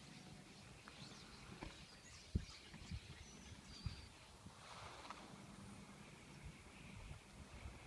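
Faint scattered chirps and short whistled calls from a flock of birds, with a few soft low thumps, the loudest about two and a half seconds in.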